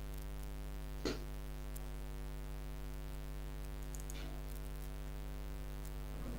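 Steady electrical mains hum with its overtones, with a short sharp click about a second in and a fainter one about four seconds in.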